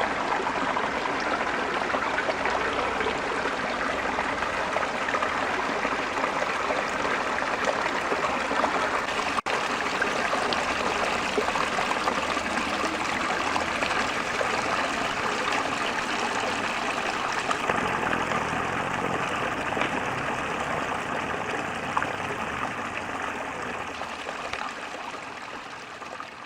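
Mountain river flowing, a steady rush of water. It cuts out for an instant about a third of the way in and fades out near the end.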